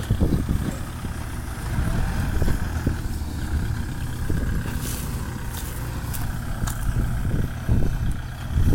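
Kubota farm tractor diesel engine running steadily under load, with a few faint clicks or knocks about five to seven seconds in.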